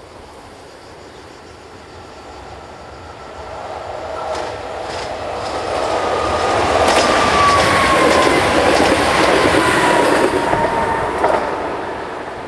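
Trenitalia regional train passing a level crossing: the rail noise builds from a few seconds in, peaks in the middle and fades toward the end. A few sharp clacks come early in the pass, and a high whine slides down in pitch as the train goes by.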